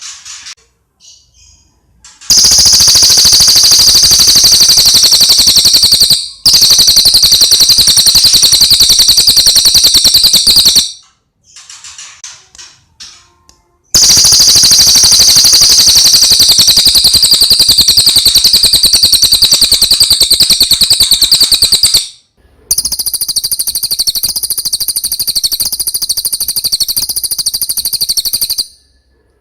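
Recorded song of a cililin bird: four long, very rapid, high-pitched trills, each lasting several seconds, separated by brief pauses with softer chirps.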